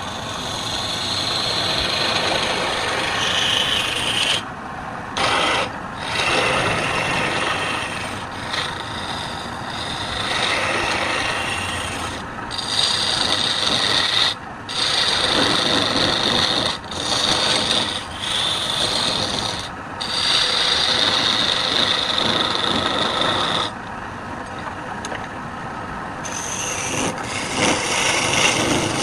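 Wood turning on a lathe with a hand-held tool held against the spinning piece, making a continuous hiss. It breaks off briefly about ten times where the tool lifts away.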